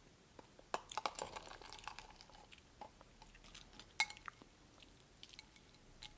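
Spoon and ice cubes clinking in a bowl of cold cucumber soup, with chewing between. One sharp clink about four seconds in is the loudest.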